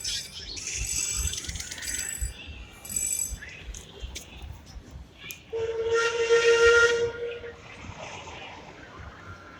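Steam locomotive whistle blown once for about two seconds, a little over halfway through. Before it comes a couple of seconds of hissing steam.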